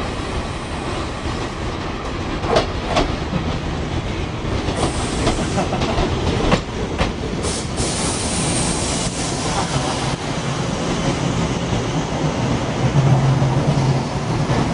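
Tobu Noda Line electric commuter train rolling past over points on a curve: wheels clack over rail joints a few times, a high wheel squeal sets in midway, and a low motor hum grows near the end.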